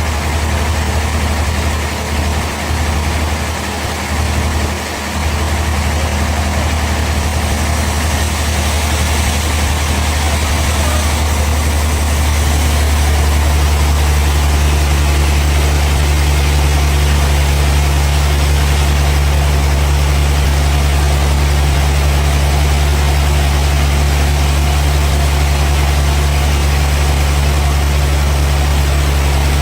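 Large engine running steadily with a deep, even drone. It wavers for the first few seconds, then settles and grows a little louder.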